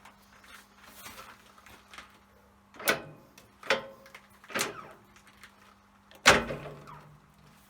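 Four knocks of metal work being handled at a lathe, the last the loudest with a short ring after it, over a faint steady hum.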